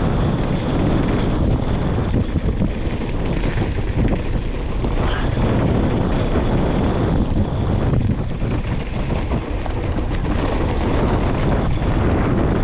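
Steady wind buffeting the microphone of a mountain bike rider's camera while riding, mixed with the rumble of the bike rolling over rough ground.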